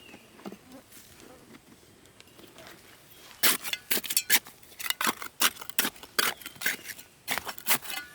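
A quick, irregular run of sharp knocks and cracks, starting about three and a half seconds in after a quiet stretch.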